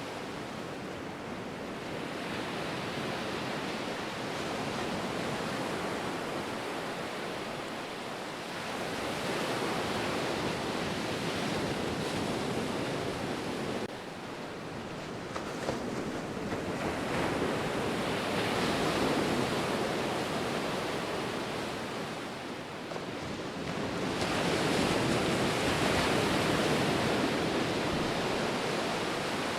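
Ocean surf: a continuous rush of breaking and washing waves that swells into three louder surges, each lasting a few seconds, then eases back between them.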